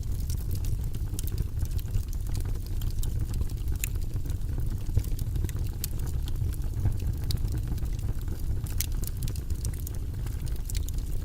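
Fire burning in a fireplace: a steady low rumble with frequent small, sharp crackles and pops.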